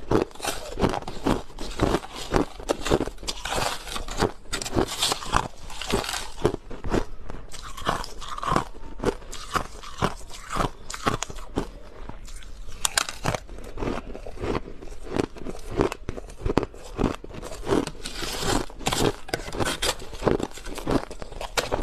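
A person biting and chewing crushed ice close to the microphone, with dense, irregular crunching throughout.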